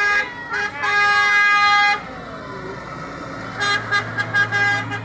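A tractor's horn sounding: a held blast lasting about a second, then a run of short quick toots near the end, over the low running of an engine.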